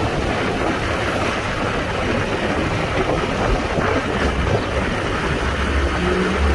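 Honda Trail 125's single-cylinder engine running on the move, under steady wind rush on the microphone. The engine's tone comes through more clearly near the end.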